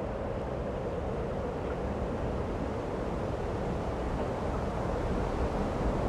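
Steady wind rushing and buffeting on the microphone, with an even rumbling undertone.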